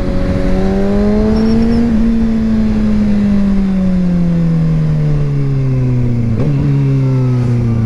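Kawasaki ZX-6R 636 inline-four engine under way, its note rising a little and then falling slowly over several seconds as the rider rolls off the throttle, over a steady rush of noise.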